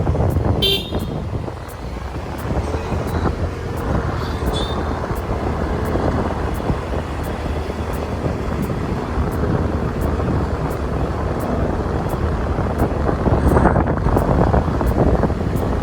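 Motorbike running on the road, with steady engine and road rumble, and two brief high-pitched tones about a second in and again about four and a half seconds in.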